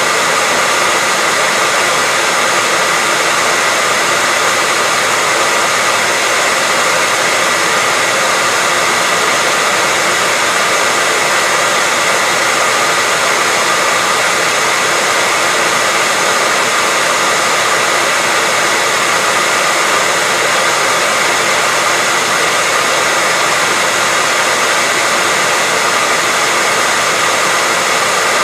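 Hair dryer running steadily, a constant airy hiss with a faint whine from its motor and fan. It is played as unbroken white noise for soothing a baby to sleep.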